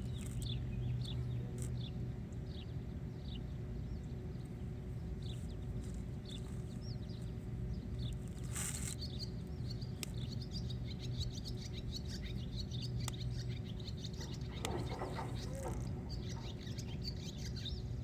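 Small birds chirping and twittering again and again, over a steady low hum.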